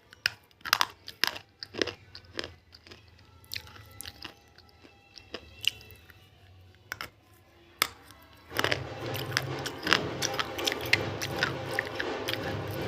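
Crisp crunching bites and chewing of crunchy food close to the microphone, in separate sharp crunches. About eight and a half seconds in, a louder, denser continuous sound with steady tones comes in.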